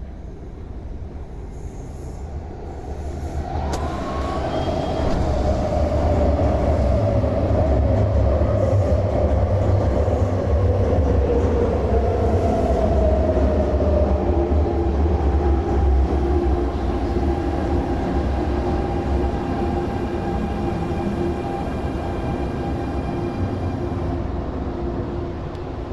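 MTR Airport Express CAF electric train pulling in and braking: a heavy low rumble that builds and then eases as it slows. From about four seconds in, a whine falls steadily in pitch, and it gives way to steady whining tones near the end.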